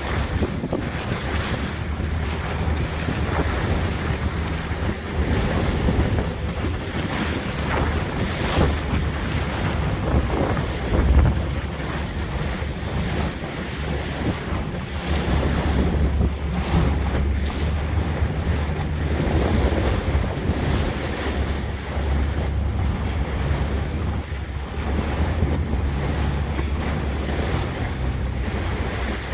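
Small boat under way: a steady low engine rumble with water washing along the hull and wind buffeting the microphone, one stronger gust about eleven seconds in.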